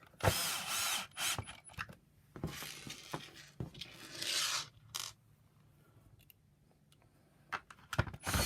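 Electric screwdriver driving screws into the plastic housing of a vacuum power nozzle, in several short runs of under a second each in the first half, followed by a few sharp clicks near the end.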